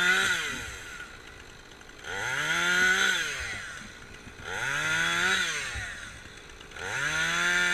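Petrol chainsaw revving up and dropping back toward idle again and again, about every two and a half seconds.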